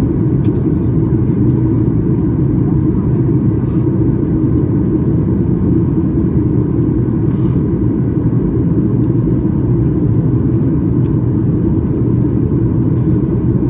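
Steady low cabin rumble inside a Boeing 737 MAX 8 airliner, the even noise of its engines and the airflow heard from a passenger seat, holding at one level.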